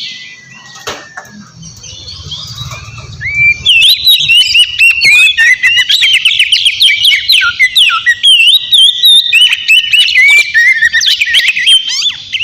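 Oriental magpie-robin singing. A quieter opening of about three and a half seconds holds one long level whistle, then a loud, rapid run of varied whistled and chirping notes that slide up and down.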